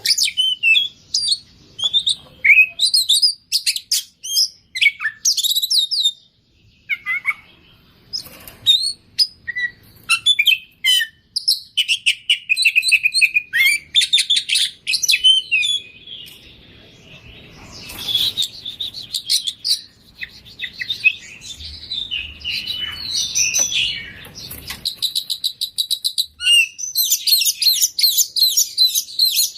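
Oriental magpie-robin singing a long, varied song of short whistles, chattering and fast trills packed with mimicked phrases, ending in a run of rapid repeated notes.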